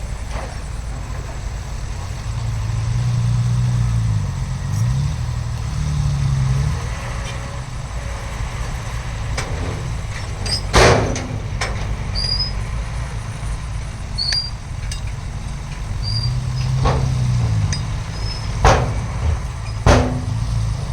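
Heavy diesel earthmoving machinery running with a low rumble. The engine rises and falls in pitch under load a few seconds in and again later. Several sharp metal clanks come in the second half.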